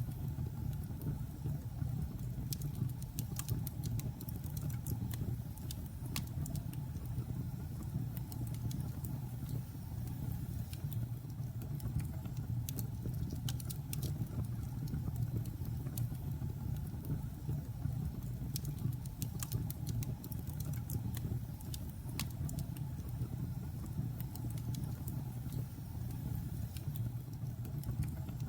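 Logs burning in a fireplace: a steady low rumble of the fire, with frequent irregular crackles and pops.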